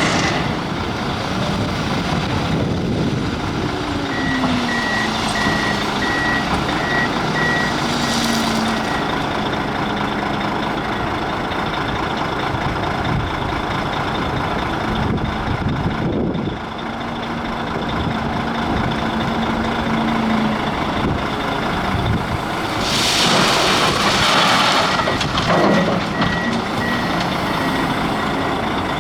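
Heavy diesel machinery running steadily while a wheel loader loads a dump truck, the engine note dropping about 3 s in. The loader's backup alarm beeps in a quick, even series from about 4 to 9 s and again near the end, and a loud rush of noise comes about 23 s in.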